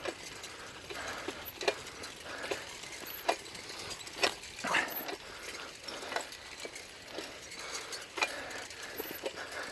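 Bicycle being ridden, its frame and parts giving off irregular clicks and rattling knocks, a few louder ones around the middle.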